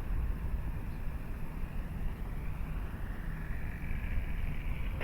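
Wind rumbling on the microphone, with the faint whine of a Dynam Cub RC plane's electric motor and propeller on its landing approach. The whine grows louder about three seconds in.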